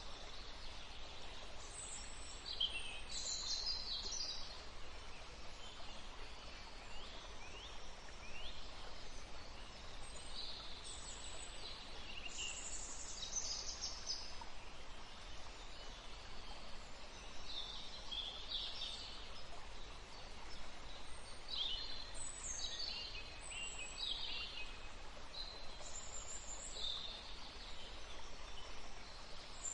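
Several wild birds singing and calling in scattered bursts of short high chirps and trills, over a steady background hiss.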